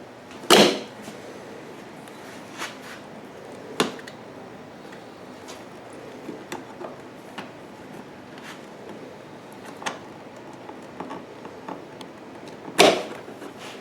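Scattered clicks and knocks of hand tools and metal parts while a spring hose clamp and fuel hose are worked off a generator's fuel selector valve, with two louder knocks about half a second in and near the end.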